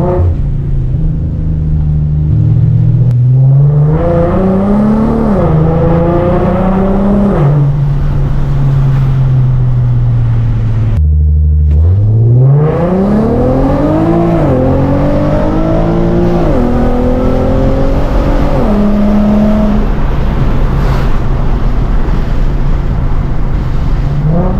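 Naturally aspirated VQ37 3.7-litre V6 and exhaust of an Infiniti G37 accelerating hard through the gears. The pitch climbs and drops at each upshift: a short pull with one shift about five seconds in, then after a brief break a longer pull with three upshifts, settling to a steady cruise near the end.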